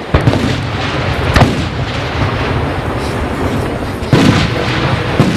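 Aerial fireworks shells bursting over a steady rumble. Sharp booms come right at the start, about a second and a half in, about four seconds in, and again near the end.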